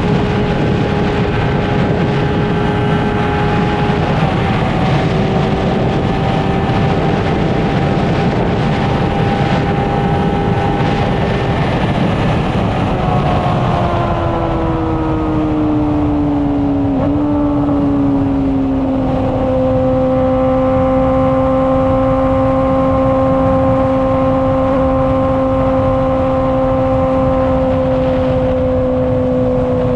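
Honda CBR600RR inline-four engine and exhaust running at a steady cruise, with heavy wind rush. The engine pitch drops slightly about four seconds in, falls over several seconds around the middle, then holds steady at a lower pitch.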